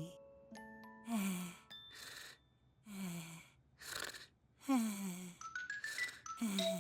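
Cartoon characters' sleepy sighing breaths: four breathy exhales about every second and a half to two seconds, each sliding down in pitch, with a few soft chime-like notes, including a short rising run, between them.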